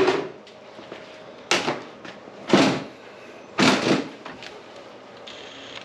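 Power drill with a long bit boring through metal in four short bursts, each about half a second long and roughly a second apart, with cutting oil on the bit.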